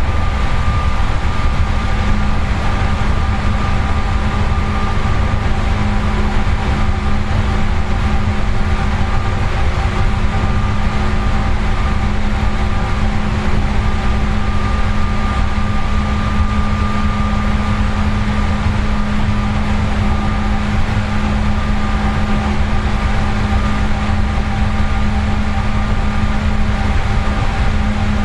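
Seibu 4000 series electric train car heard from inside while running between stations: a steady rumble and road noise with a steady hum of several held tones, unchanging throughout.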